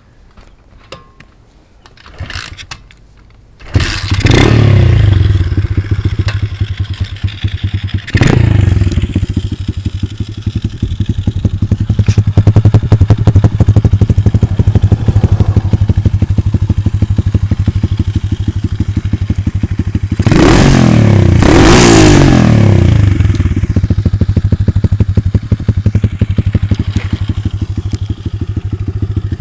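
SSR 125 pit bike's 125cc four-stroke engine starting about four seconds in, then idling with a steady beat. It is revved a few times, near the start and twice close together later on.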